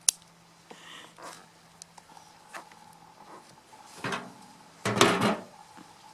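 Short scraping and rustling handling noises from digging sweet potatoes out of a garden pot: a sharp click at the start, a few faint ticks, then two brief scrapes about four and five seconds in, the second the loudest.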